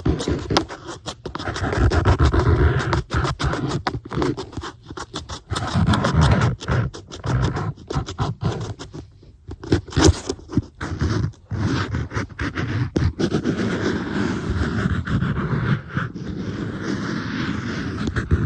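An iPad being tapped and scratched close to the microphone: a dense run of quick taps mixed with scratching on its surface.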